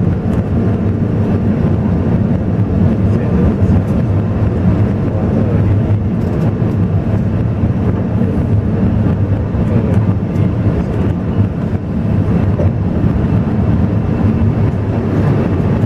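Alishan Forest Railway train running: a steady, loud rumble of engine and wheels on the rails.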